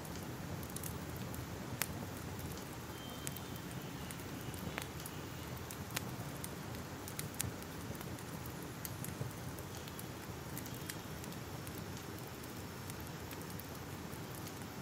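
Crackling fire: a steady low hiss with scattered sharp pops and crackles, a few louder ones about two, six and seven seconds in.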